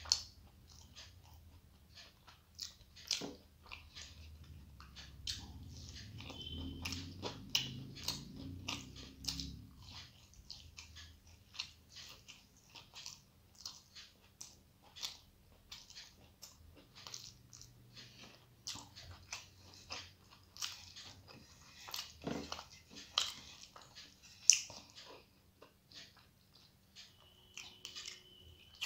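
Close-up mouth sounds of a person eating rice and curry by hand: chewing, with many short wet clicks and lip smacks.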